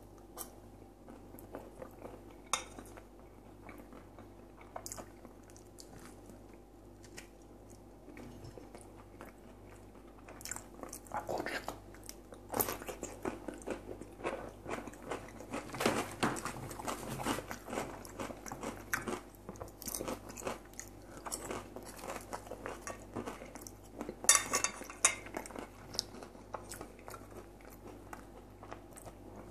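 Close-up chewing and biting of crispy fried potatoes, with soft crunches and mouth clicks, louder and busier through the middle and with a sharp crunchy burst late on.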